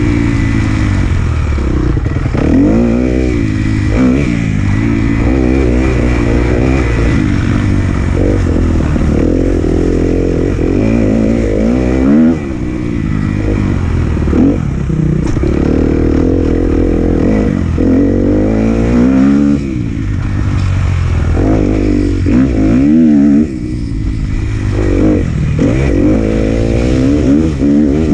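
2018 Kawasaki KX250F's single-cylinder four-stroke engine revving hard through a motocross lap, its pitch climbing and falling again and again as the throttle is opened and shut. The level drops suddenly a few times as the throttle is chopped.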